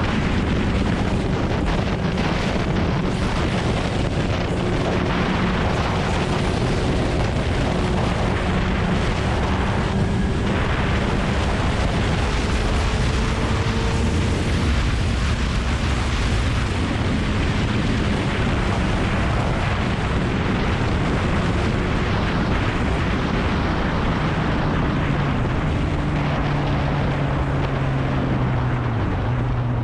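Kawasaki ZX-9R's inline-four engine running under way with heavy wind rush on the GoPro microphone. The engine note climbs slowly over the first half and drops lower near the end.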